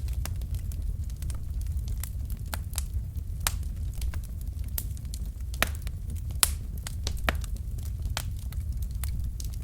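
Wood fire burning in a fireplace: irregular sharp crackles and pops from the logs over a steady low rumble of the flames. The biggest pops come about five and a half and six and a half seconds in.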